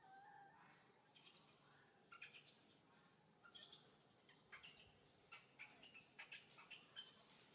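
Faint chirping of small birds: many short, high calls in quick clusters, with a brief pitched call just at the start.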